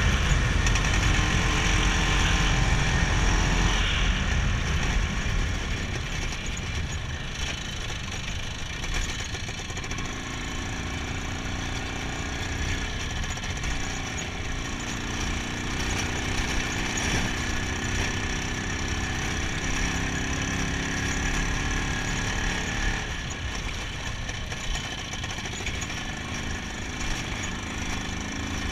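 IZh Planeta 5 motorcycle's single-cylinder two-stroke engine running during a ride, louder for the first few seconds, then easing off to a lower, steady level.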